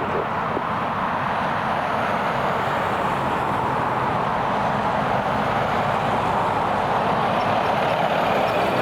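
Jet aircraft engine noise, a steady roar that grows slightly louder toward the end.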